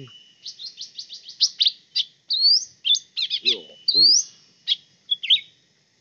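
Cucak ranting birds chirping: a quick run of about ten sharp chirps early on, then varied louder notes, including short trills and two rising whistles.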